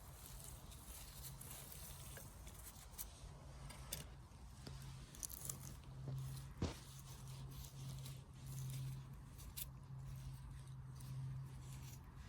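Faint crackling and crunching of forest leaf litter, with scattered small snaps as a mushroom is handled and picked by hand; one sharper snap past the middle. A low steady hum runs underneath.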